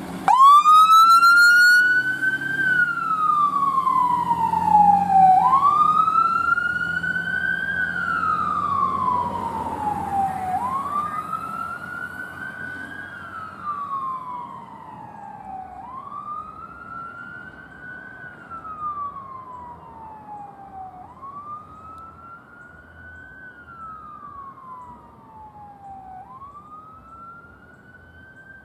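Emergency vehicle siren on a wail, each sweep rising quickly and then falling slowly, repeating about every five seconds. It starts suddenly and is loudest at the start, then fades steadily as the vehicle moves away.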